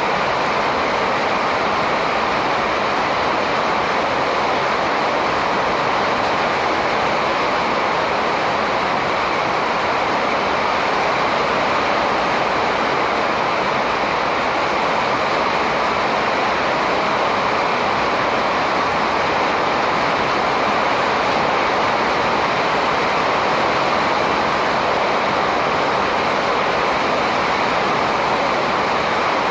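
Steady, even rushing noise with no distinct calls or strikes standing out.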